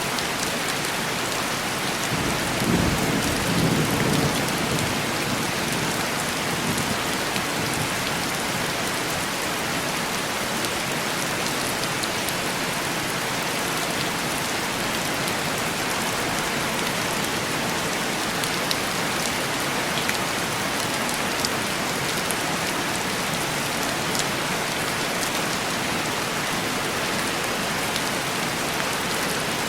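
Steady heavy rain tapping on a window pane, with a low roll of thunder about three seconds in.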